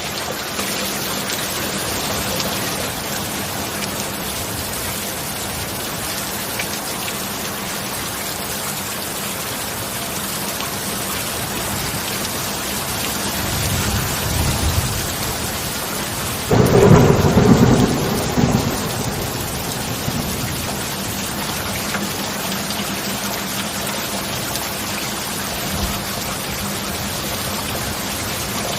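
Steady heavy rain with thunder. Partway through, a low rumble swells, then a sudden loud thunderclap lasts a couple of seconds before the steady rain carries on alone.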